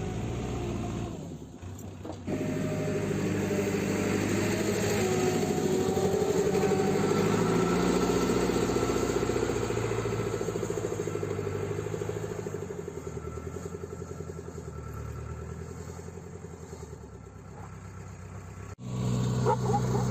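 JCB 3CX backhoe loader's diesel engine running under work, its note rising sharply about two seconds in and easing off in the second half, with a sudden break and a louder return near the end.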